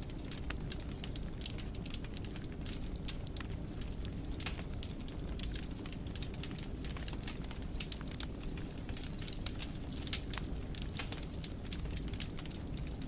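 Wood fire burning in a fireplace: a steady low rumble with frequent sharp crackles and pops, a cluster of louder pops about ten seconds in.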